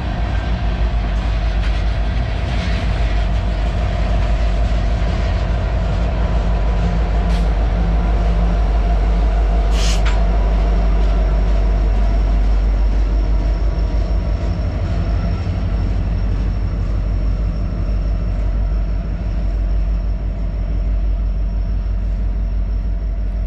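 Freight train of tank cars rolling past, ending with a diesel locomotive at the rear: a steady heavy rumble of wheels on rail and engine, with one sharp crack about ten seconds in. The rumble stays loud after the last unit passes.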